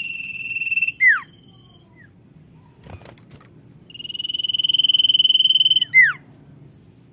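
Common iora calling twice: each call is a long, trilled whistle that grows louder, then ends in a sharp, quickly falling note. The first call comes at the start and the second about four seconds in.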